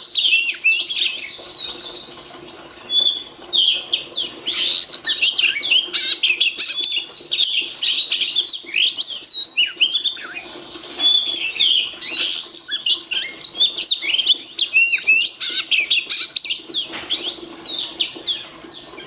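Oriental magpie-robin (kacer) singing a fast, varied song of sliding whistled notes, with a brief pause two to three seconds in.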